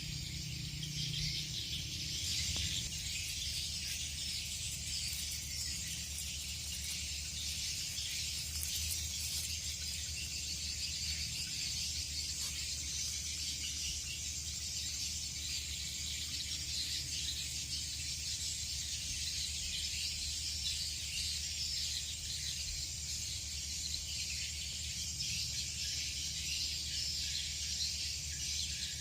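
Steady high-pitched chirring of insects, like crickets, with a low steady hum underneath.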